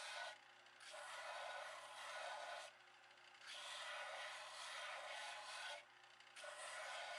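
Rough scraping on wood in long strokes of about two seconds each, with short pauses between them.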